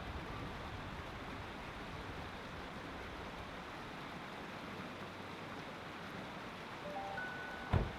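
Mountain stream rushing steadily. Near the end a few faint piano notes sound, and just before the end comes a single low thump, the loudest moment.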